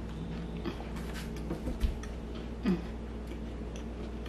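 A person chewing a bite of a sandwich on soft keto protein bread, with faint clicking mouth sounds. There is a soft knock a little under two seconds in and a short falling tone about halfway through.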